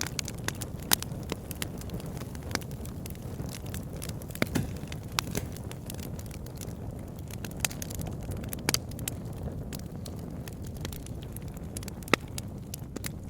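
Campfire burning, with a steady low rumble of flames and irregular crackles and pops of burning wood. A few sharper snaps stand out, about a second in, around four and a half seconds, near nine seconds and near twelve seconds.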